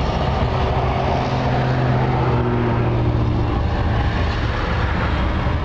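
1965 Chevy C20 pickup's 350 small-block V8 running steadily under way at cruising speed, with a steady engine hum over road noise.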